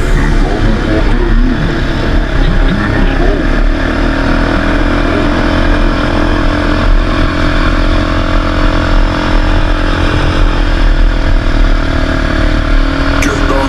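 ATV (quad bike) engine running while riding, its drone holding fairly steady with slight rises and falls in pitch, over a heavy low rumble. A few sharp clicks near the end.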